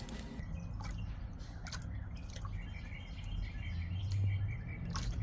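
Birds chirping in the background over a low steady rumble, with a few scattered clicks.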